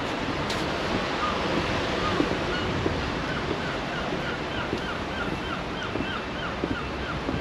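Sea waves washing on the shore, with wind on the microphone. From about two and a half seconds in, a bird calls over it in a quick series of short, repeated notes, about three a second.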